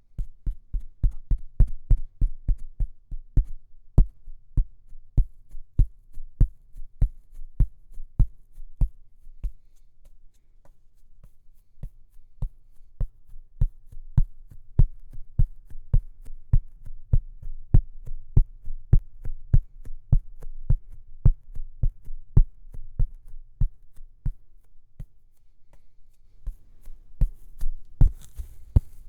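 ASMR tapping: fast, even, rhythmic taps about three to four a second, each a deep thud with a sharp click on top, close to the microphone. A brief soft hissing comes in near the end.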